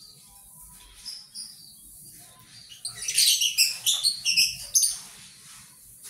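Shrill lovebird chirping: scattered faint chirps, then a loud rapid flurry of chirps about three seconds in that lasts nearly two seconds. Beneath it is a soft rustle of bird seed being stirred by hand in a plastic basin.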